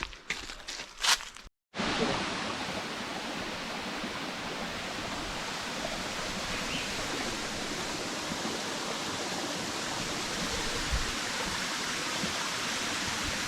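Waterfall running: a steady, even rush of falling water. A few short knocks come just before it, then an abrupt cut.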